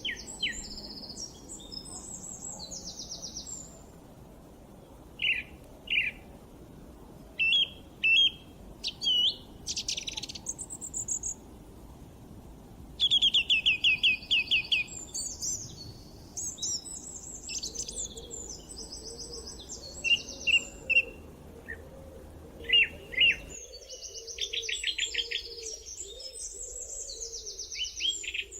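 Several birds singing and chirping, with high trills, single chirps and fast runs of repeated notes overlapping one another, over a faint low ambient background.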